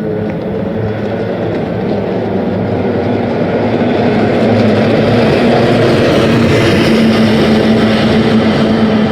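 Kyotei racing boats' two-stroke outboard engines running at speed, a steady engine note growing louder as the boats come closer.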